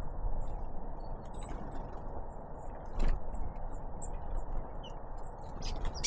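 Small birds at a feeder: a sharp knock about three seconds in and a few more taps near the end, with faint short high chirps, over a steady low hiss.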